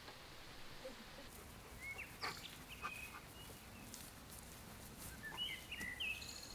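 Small birds chirping: short whistled chirps about two seconds in and another cluster near the end, over faint outdoor background noise with a few light clicks.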